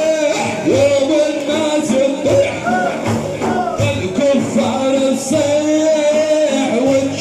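A male voice chanting a manqaba, a sung praise of the Prophet, in long melismatic phrases, with frame drums beating underneath.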